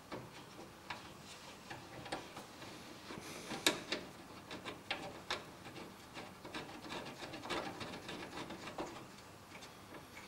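Irregular small clicks, ticks and scraping of hand work inside a PC case: a screwdriver fastening the PCIe wireless card's bracket screw to the case.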